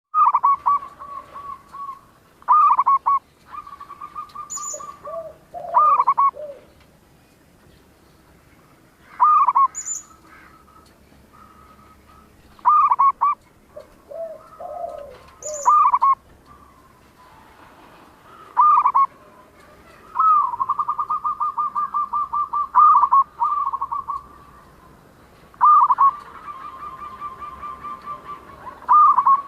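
Zebra dove (perkutut) cooing: short, loud phrases of rapid trilled notes repeated every few seconds, with longer rolling trills in the second half.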